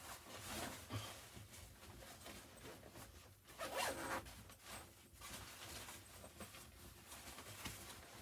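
A zipper being pulled in several short rasping strokes, the loudest about three and a half seconds in.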